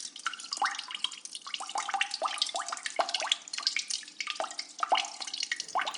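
Water dripping and trickling: many quick droplet plinks at irregular intervals, several a second, each a short rising pitch.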